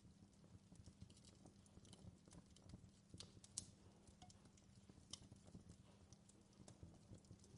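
Fireplace fire crackling faintly, with irregular sharp pops over a low steady rumble.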